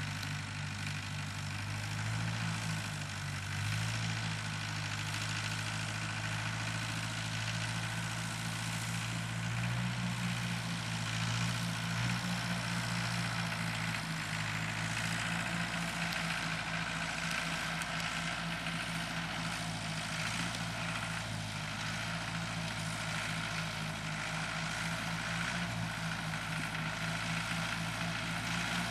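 Tractor engine running steadily with an even throb, pulling a plow through the soil.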